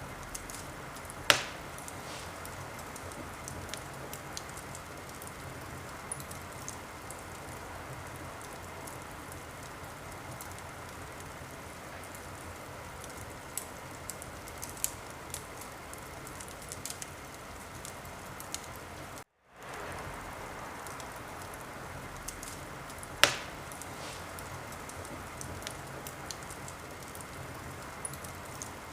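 Wood fire crackling: a steady hiss with scattered small crackles and two loud pops, one about a second in and another about twenty-three seconds in. The sound cuts out completely for a split second about two-thirds of the way through.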